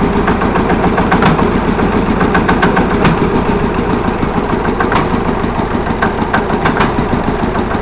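Kelvin two-cylinder petrol/diesel marine engine running steadily, with a fast, even firing beat and a few sharper clacks standing out now and then.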